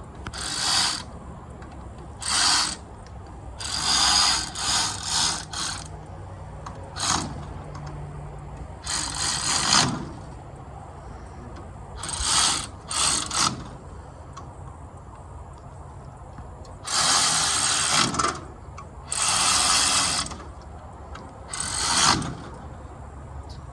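Hand ratchet wrench clicking in short spurts, about a dozen of them with pauses between, as fasteners are worked on the tractor.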